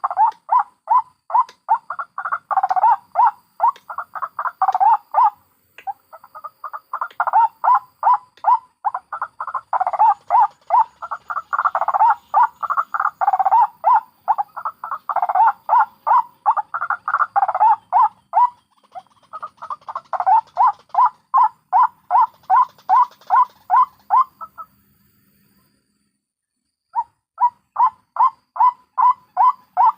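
White-breasted waterhens (ruak-ruak) giving their repeated croaking calls, a fast run of notes at about three to four a second, broken by a pause of about two seconds near the end.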